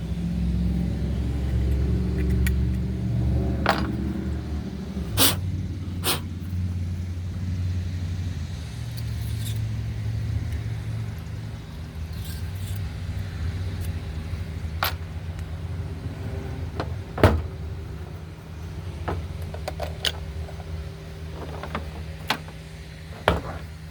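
Scattered sharp clicks and knocks of metal tools and parts being handled while a chainsaw bar is cleaned, the loudest about two-thirds of the way through, over a steady low mechanical hum.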